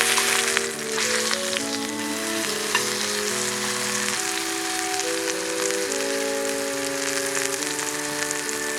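Food sizzling as it cooks: a steady hiss with scattered small pops, under background music of slow held notes.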